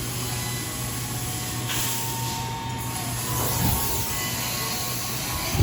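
Emerson Stratojet ceiling fan running: a steady low motor hum under the rush of the moving air, with faint steady tones above it.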